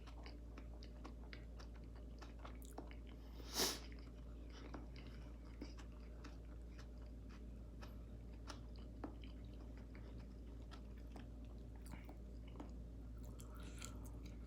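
Close-miked chewing of soft buttery food, with many small wet mouth clicks and smacks. About three and a half seconds in there is one louder, brief rush of noise.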